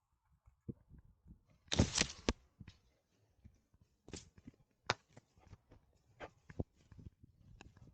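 Irregular clicks, knocks and rustles from a camera strapped to a moving dog: its footfalls and the harness and mount shifting and rubbing. A louder burst of rustling and knocking about two seconds in.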